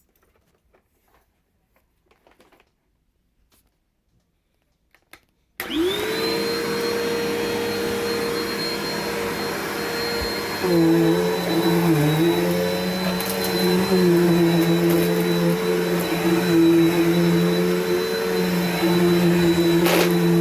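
Near silence, then a Bissell PowerForce upright vacuum cleaner switches on about a third of the way in, its motor spinning up to a steady whine. About five seconds later it grows louder and its pitch dips and wavers. It is running well after more than a year in storage.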